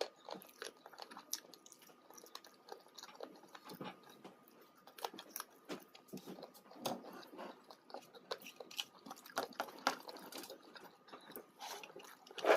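Close-up chewing and mouth sounds of a person eating chicken curry with roti and rice: irregular wet smacks and small clicks throughout.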